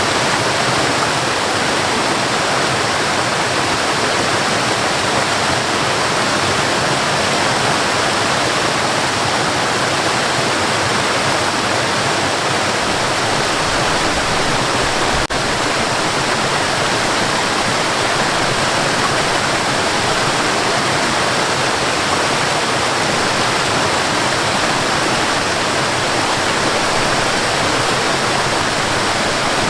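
Waterfall: a steady, loud rush of falling water, with a momentary dip about halfway through.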